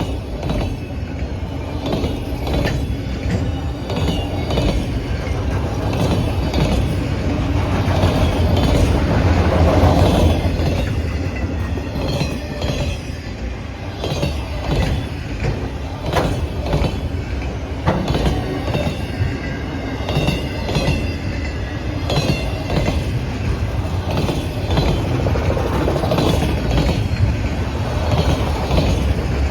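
Freight train cars rolling past, their steel wheels clicking over rail joints, with thin metallic wheel squeals now and then. The rumble swells to its loudest about ten seconds in.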